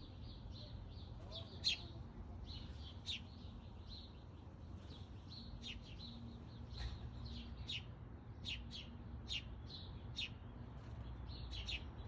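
Small songbird chirping repeatedly, short high notes at about two a second, over a steady low hum.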